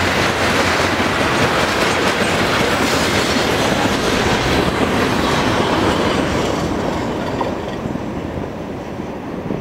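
Freight cars' steel wheels rolling past on the rails as the last coil steel cars and a gondola go by. The noise thins and fades from about six or seven seconds in as the end of the train moves away.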